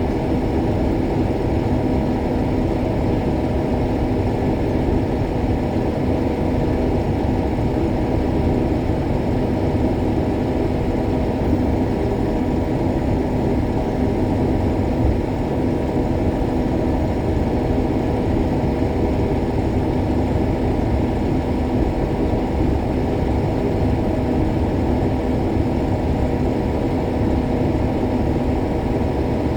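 Combine harvester running steadily while harvesting soybeans: a constant, unchanging machine drone with several steady hums underneath.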